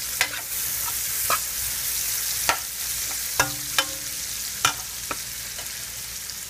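Sliced onions and garlic sizzling in hot oil and butter in a metal pot, stirred with a metal spoon that clinks and scrapes against the pot about seven times.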